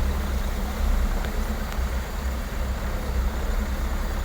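A vehicle's engine running in a low, steady rumble as it drives slowly through deep, fast-flowing floodwater, with an even rush of water over it.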